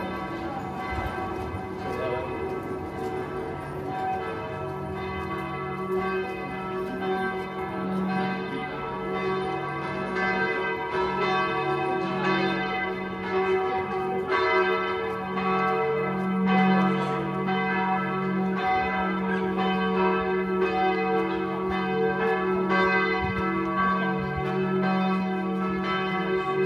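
Church bells pealing, many overlapping strokes blending into a continuous ringing that grows a little louder a few seconds in.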